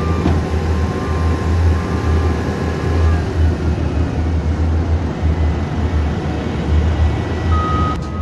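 Heavy diesel work vehicle or machine engine running with a pulsing low rumble, with short steady reversing beeps sounding a few times.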